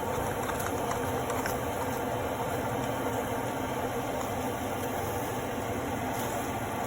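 Tuna and ham omelette frying in hot vegetable oil: a steady sizzle with faint scattered crackles.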